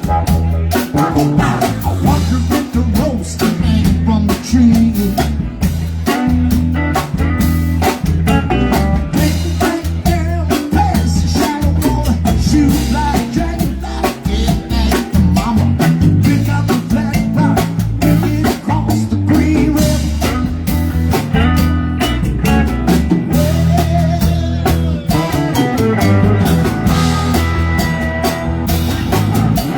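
Live band playing a song, with drum kit and guitar over steady bass notes.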